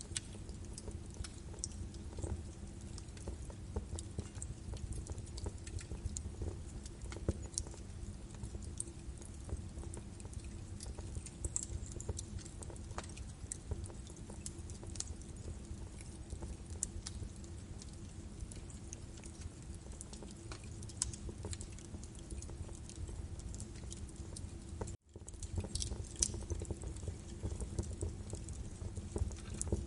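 Birch wood burning in a fireplace: continuous crackling with frequent sharp pops over a low rumble of the flames. The sound drops out for a split second near the end.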